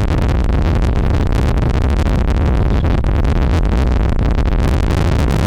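Loud, steady rushing noise with a strong low rumble: wind and road noise from the moving Dominator 3 armored storm-chasing vehicle.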